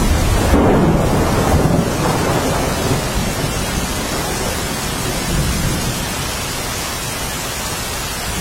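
Rain falling steadily, with a low rumble underneath that swells in the first couple of seconds and then eases.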